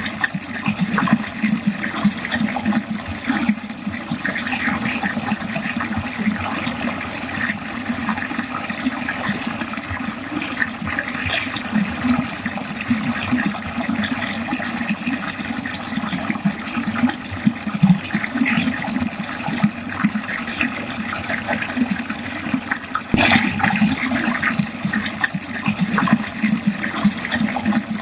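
Water running steadily down a drain, with a continuous gurgling, splashing flow.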